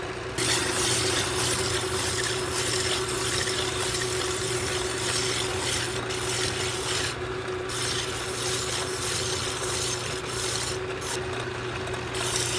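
Hand file rasping against a metal headlight bezel spinning in a lathe, cutting a radius on its edge, over the lathe motor's steady hum. The filing starts just after the beginning and breaks off briefly a few times.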